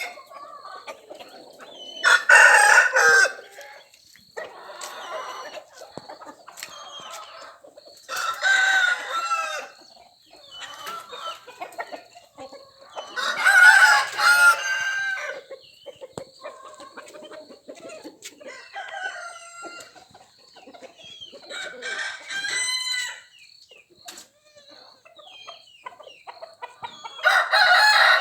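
Desi chickens: a rooster crows about every five or six seconds, five times in all, the last starting near the end, with softer clucking between the crows.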